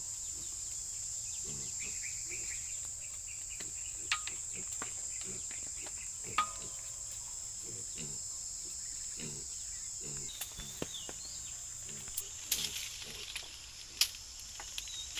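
Steady high-pitched insect chorus, with scattered rustles and sharp clicks and a few short bird chirps.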